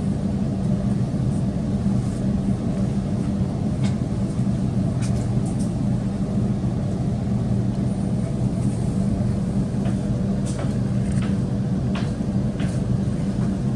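Cabin sound of an electric suburban train slowing into a station: a steady low hum and rumble from the traction equipment and running gear, with a few faint high ticks and squeaks.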